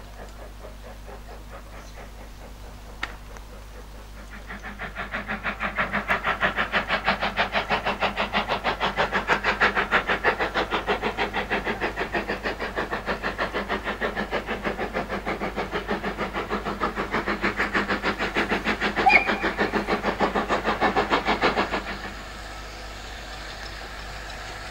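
A train passing at steady speed, heard as a fast, even rhythm of beats. It swells up about four seconds in, carries one sharp knock near the end, and drops away abruptly.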